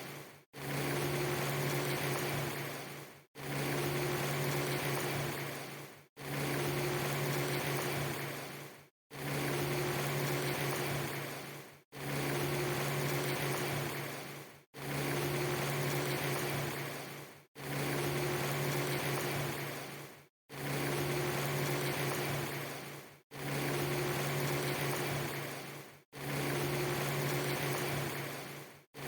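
A short rain-ambience loop: a steady hiss of rain with a low hum under it. It repeats about every three seconds, each repeat fading out to a brief dropout before the next starts.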